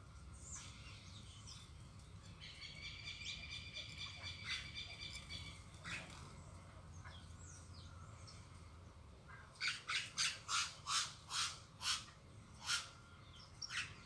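Small birds calling at a garden feeder. A high, rapid trill of repeated notes lasts about three seconds, starting a couple of seconds in. Later comes a run of about eight loud, sharp call notes, roughly three a second, with one more near the end.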